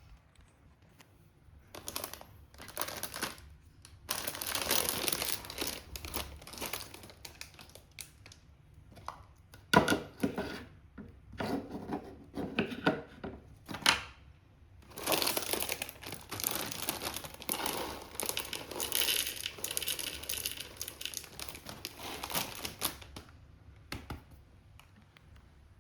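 Rustling and crinkling in irregular bursts, with a few sharp clicks about halfway through.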